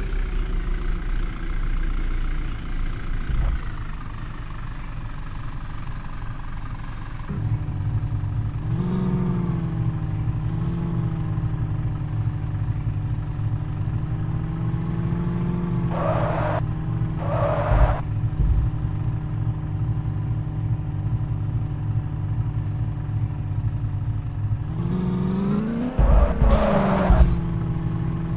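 Vehicle engine running steadily. Its pitch steps up about a quarter of the way in and rises in a brief rev near the end, with short hissing bursts about halfway through and again near the end.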